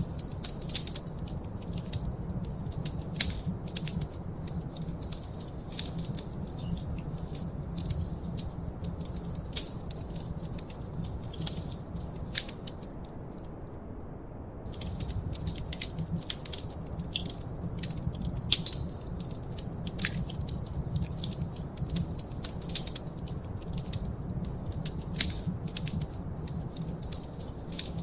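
Fire in a fireplace crackling and popping, sharp irregular snaps over a steady low rumble. The crackles pause for about a second near the middle.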